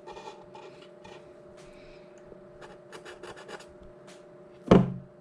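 Pen scratching on a surface as markings are written, a run of short light strokes over a faint steady hum, with one loud short sound near the end.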